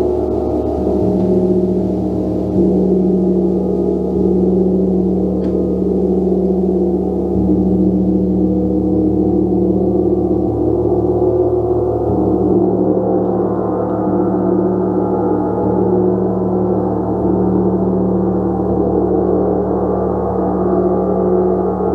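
Gong played continuously: a dense wash of sustained, overlapping ringing tones over a low hum, swelling slightly every few seconds as it is struck again.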